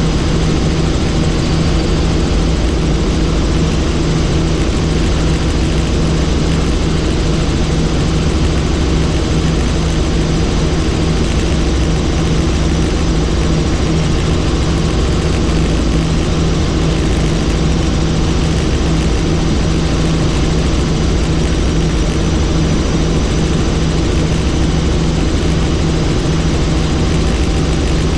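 Helicopter in steady flight heard from on board: constant engine and rotor noise with a steady low hum.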